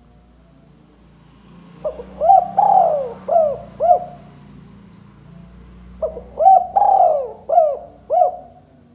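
Spotted dove (tekukur) cooing: two phrases of four or five arching coo notes, each about two seconds long and about four seconds apart.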